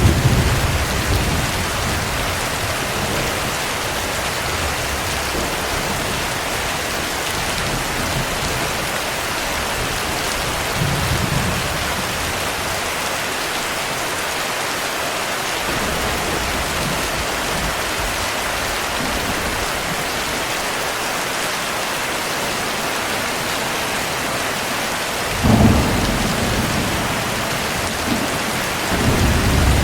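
Steady heavy rain, with low rolls of thunder at the start, around a third of the way in, and twice near the end, the loudest of them about four seconds before the end.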